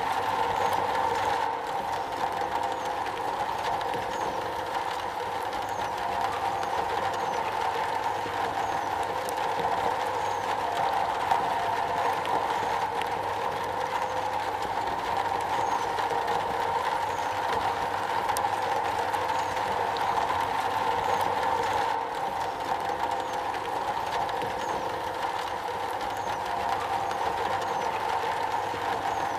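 Steady rain falling on a metal roof, an even patter of many drops with no break.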